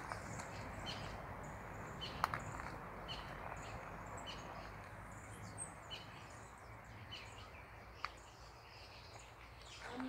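Small forest birds giving short, high chirps here and there over a steady background noise, with a couple of sharp clicks about two seconds in and near eight seconds.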